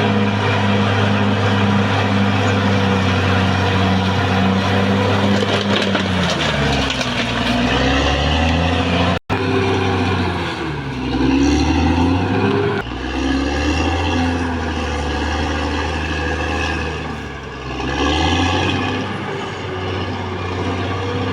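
Caterpillar D6R XL bulldozer's diesel engine running hard, steady at first. From about six seconds in, its note sags and recovers several times as the machine works. About nine seconds in, the sound cuts out for an instant.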